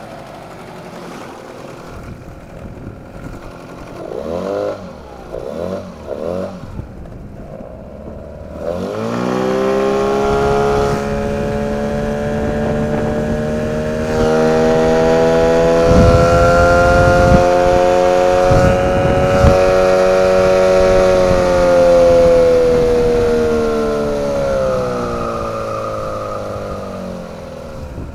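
9.8 hp outboard motor idling, blipped a few times, then revved up and held at high revs with a strong whistling tone before the revs drop near the end. The whistle is of unknown cause; the owner calls it a brake whistle.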